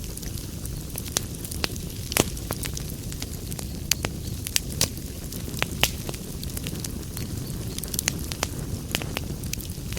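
Fire burning in a fireplace: a steady low rumble with irregular sharp crackles and pops, the loudest about two seconds in.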